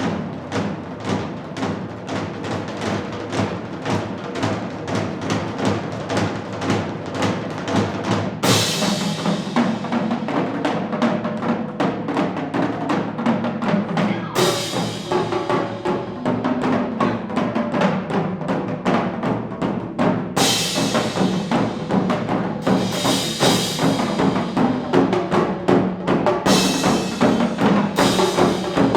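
Korean fusion percussion ensemble drumming: a dense run of fast, even drum strokes. From about a third of the way in, bright crashes break in at intervals over the drumming.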